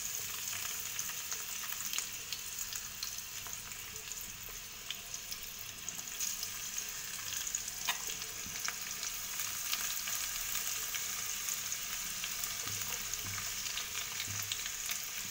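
Chopped onion, tomato and green chillies sizzling and crackling in hot sunflower oil in a pan, with occasional scrapes and clicks of a spatula as they are stirred.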